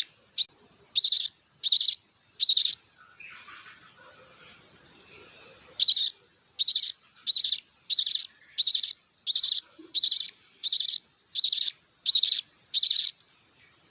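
Budgerigar chicks begging for food with loud, harsh, rasping calls repeated about every 0.7 seconds. There are three calls, a lull of about three seconds, then a run of about eleven more. A thin, steady high tone runs underneath.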